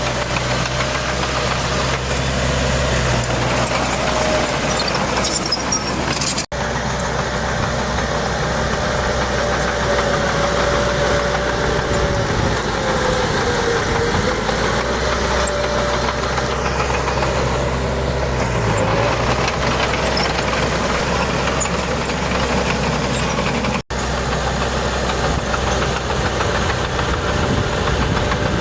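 Diesel engine of a crawler bulldozer running under working load, its pitch sagging and recovering a couple of times. The sound cuts out for an instant twice.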